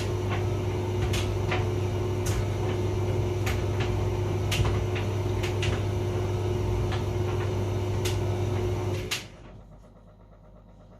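Hotpoint vented tumble dryer running with a steady hum and light knocks every second or so from inside the drum. About nine seconds in the motor and drum stop suddenly, leaving only a faint background.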